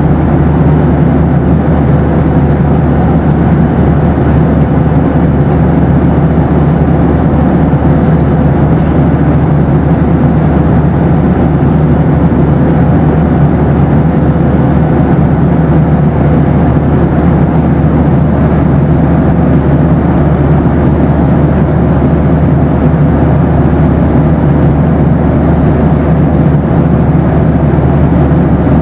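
Boeing 737 cabin noise in flight: a steady, even rush of engine and air noise, with a thin steady tone held through it.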